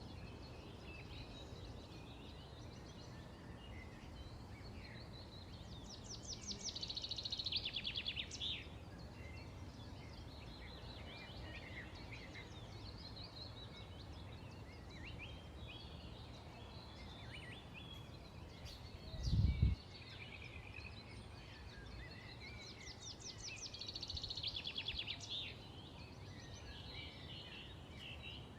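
Wild birds singing outdoors: scattered short chirps, with two longer phrases of rapid, evenly repeated trilled notes, one about a quarter of the way in and another near the end. A brief low thump stands out about two-thirds of the way through.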